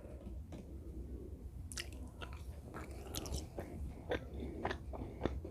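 Close-up sounds of a person chewing and biting fast food, with scattered mouth clicks and light crunches over a low steady hum.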